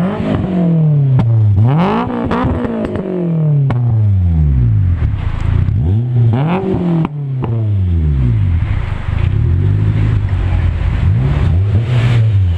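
Swapped Honda K20A Type R inline-four being free-revved repeatedly in a stationary Chevrolet Sonic. Each rev climbs sharply and falls back to idle: one big rev about two seconds in, another near the middle, then a string of shorter blips.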